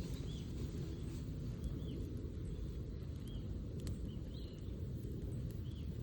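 A small bird giving short high chirps about every second and a half over a steady low rumble, with a few faint sharp clicks.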